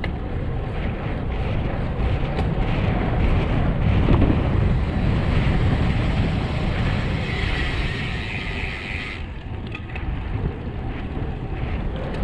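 Wind rushing over the camera microphone on a fast road-bike descent, a steady low buffeting. A brighter hiss joins about seven seconds in and cuts off suddenly about two seconds later.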